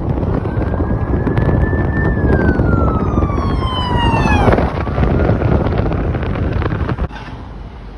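Ambulance siren wailing, its pitch rising slightly and then sliding down until it drops away sharply about four and a half seconds in, over loud vehicle engine and road noise that falls off near the end.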